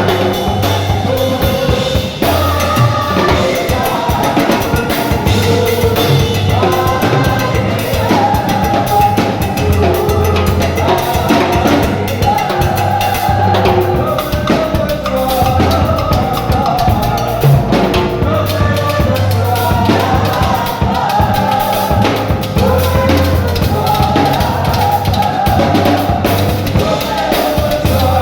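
Band music with a full drum kit (kick, snare and rimshots) over a steady bass line and melodic parts, at a steady beat; it sounds like a church worship band.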